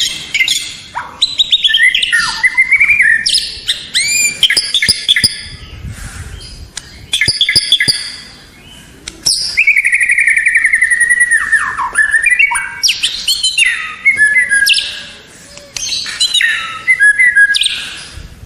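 White-rumped shama (murai batu) singing: a loud, varied song of clear whistles, sliding notes and rapid trills, in phrases broken by short pauses.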